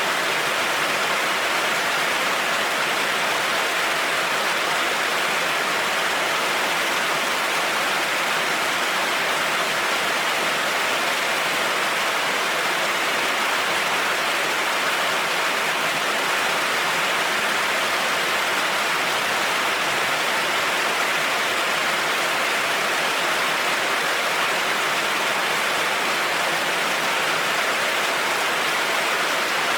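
Heavy rain falling steadily on a road, a dense, even hiss with no thunder and no let-up.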